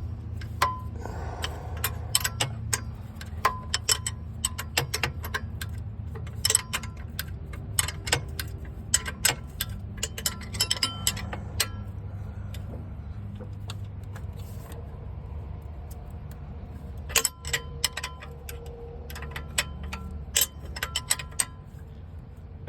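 Wrench and socket work on the exhaust's 12mm bolts: clusters of sharp metallic clicks and clinks, over a steady low hum.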